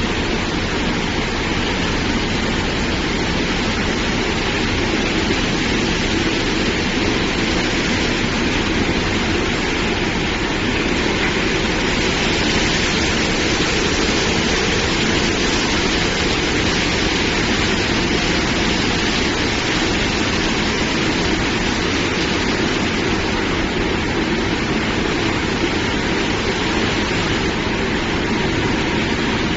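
Risense tunnel car wash machine running: a steady rush of water spray and machinery noise that holds level throughout.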